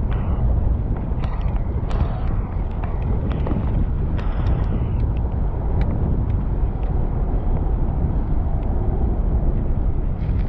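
Steady low rumble of wind buffeting the microphone and street noise during a bicycle ride, with scattered light clicks and rattles.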